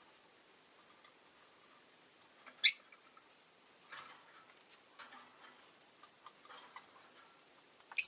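Rosy-faced lovebirds: two short, sharp, high-pitched chirps, one about a third of the way in and one at the end, with soft scattered clicks between them.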